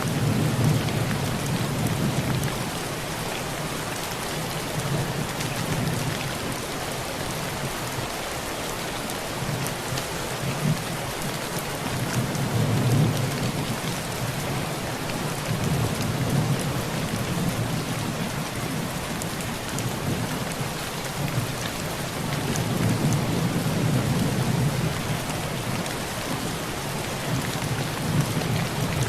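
Heavy rain drumming steadily on a tin roof, with fine pattering of drops. Low rolling thunder swells and fades several times, loudest about halfway through and again near the end.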